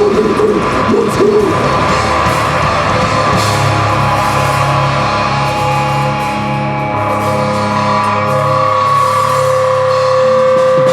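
Live rock band playing loud: sustained electric guitar notes over a pulsing bass line, with a wavering held pitch near the start that fades by about 2 s.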